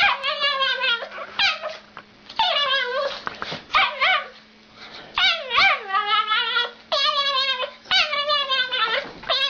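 A dog giving a string of odd, warbling howl-like calls, each under a second, its pitch wobbling up and down within every call.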